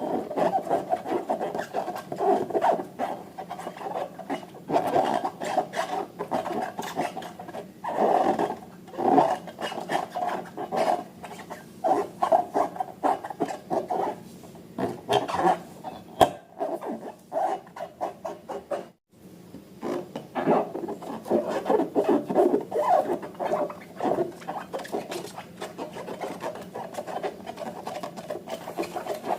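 Slime being mixed and squished by hand: a continuous, irregular run of sticky clicks, crackles and squelches, breaking off briefly about nineteen seconds in.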